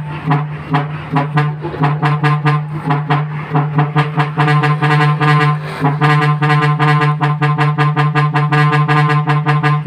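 Truck's musical air horn playing a tune of rapid staccato notes over a steady low drone.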